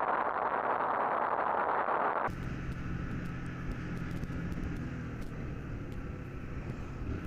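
Steady rushing road noise that cuts off abruptly about two seconds in, followed by a motorcycle engine running steadily in traffic.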